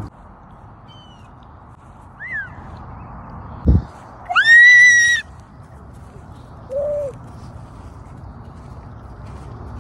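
A baby's high-pitched squeals imitating bird chirps: a brief falling squeak, then a loud held squeal just before the middle, and a short lower squeak after it. A single low thump comes just before the loud squeal.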